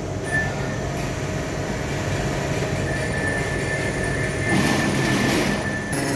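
Workshop machinery running with a steady rumble, a low hum and a thin high whine. A rougher, louder stretch comes about four and a half seconds in and lasts over a second.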